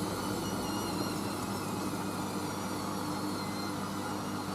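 Hoover AAA160 Whisper 1600 washing machine filling with water for its second rinse while the drum motor runs. It is a steady hum over an even hiss.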